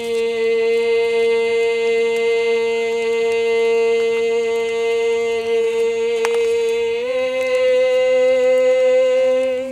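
A voice chanting one long, steady held vowel in prayer, stepping slightly up in pitch about seven seconds in.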